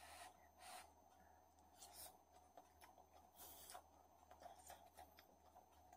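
Near silence, broken by a few faint, soft noises of a mouthful of food being chewed.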